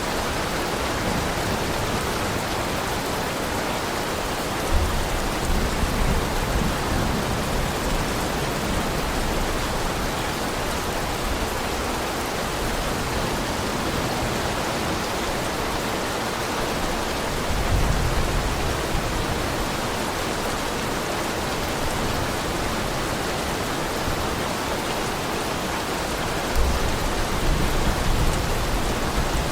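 Heavy rain falling steadily, an even hiss, with a low rumble swelling up three times: about five seconds in, midway, and near the end.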